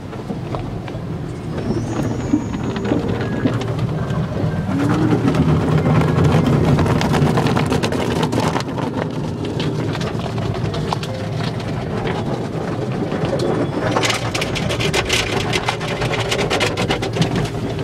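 Automatic tunnel car wash heard from inside the car: the wash machinery runs steadily with water and washing equipment working on the car's body. Near the end comes a dense run of rapid hits and splatter.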